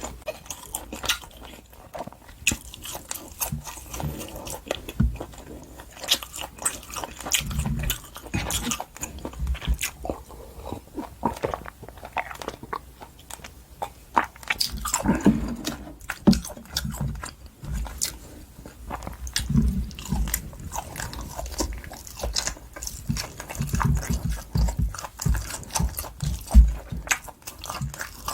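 Close-miked chewing and biting of wagyu top blade steak: a dense run of small wet mouth clicks with soft low thumps recurring throughout.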